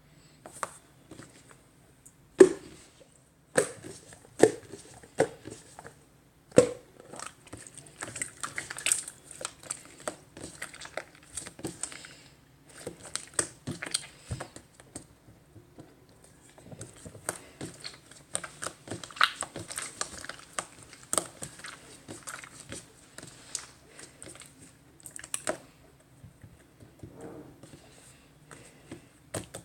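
Clear slime being squished and stretched by hand, with many sharp pops and sticky crackling. The loudest pops come in the first seven seconds.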